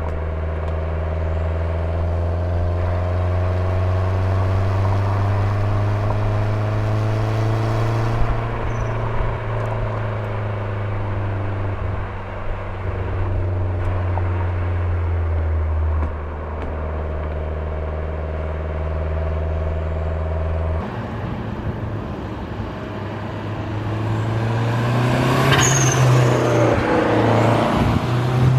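Lancia Delta HF Integrale 16V's turbocharged 2.0-litre four-cylinder engine running while the car is driven. The note climbs slowly over the first several seconds, then holds steady, drops in pitch a little past halfway, changes again about two-thirds through, and grows louder and rougher near the end.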